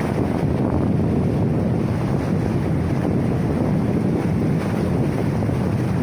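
Floodwater rushing in a torrent: a loud, steady, even roar of moving water.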